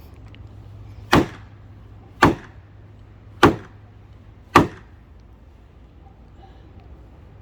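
Four heavy hammer blows on wood, a little over a second apart, then they stop; typical of driving a fence post down.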